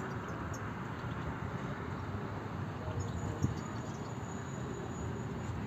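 Faint high chirps of European goldfinches over a steady low background rumble, with one thump about three and a half seconds in.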